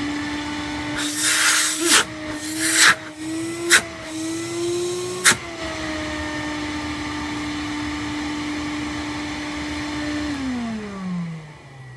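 Stihl industrial wet-and-dry vacuum motor running with a steady whine. In the first five seconds it is broken by a few rushes of air and two sharp clicks. About ten seconds in it is switched off and winds down, its pitch falling away.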